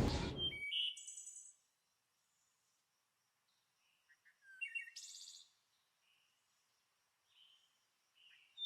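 Birds chirping in short high bursts: a few calls about a second in, a cluster around the middle and more near the end, with near silence between. A loud rushing noise cuts off right at the start.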